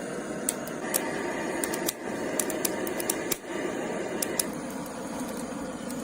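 Wood fire crackling: scattered sharp pops at irregular intervals over a steady hiss.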